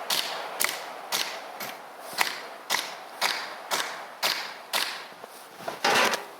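Sap spile being pounded into a drilled hole in a maple trunk, with steady blows about two a second. A longer, louder scraping noise comes near the end.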